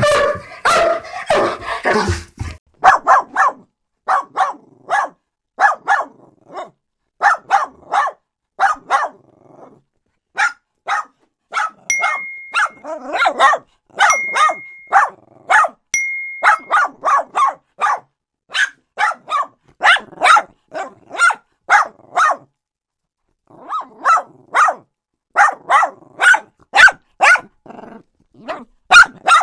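Dogs barking: short, sharp barks in quick runs of two to four with brief gaps between, after a denser, lower stretch in the first two seconds. Three steady, high, beep-like tones sound about two seconds apart partway through, and the barking pauses briefly before starting again.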